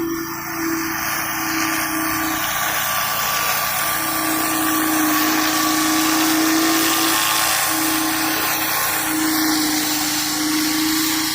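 Petrol-engine pressure washer running steadily with its high-pressure water jet hissing against concrete.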